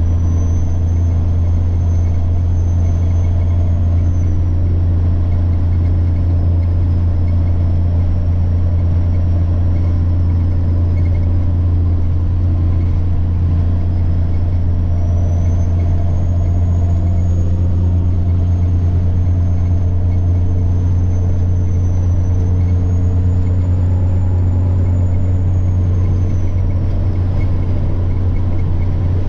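Semi truck's diesel engine droning steadily while driving, with a high turbocharger whine over it. The whine dips a few seconds in, climbs back about halfway through, peaks again later and falls away near the end.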